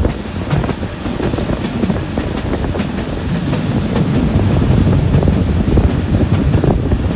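Vietnam Railways passenger train running along the track: a steady rumble of wheels on rail, with scattered faint clicks from the rail joints.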